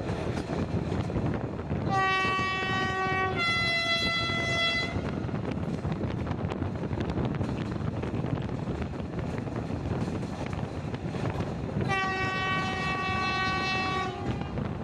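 Diesel locomotive horn giving a two-tone blast, a low note stepping up to a higher one, about two seconds in, then a long low note near the end. Underneath is the steady rumble and wind noise of the moving train, heard from an open carriage window.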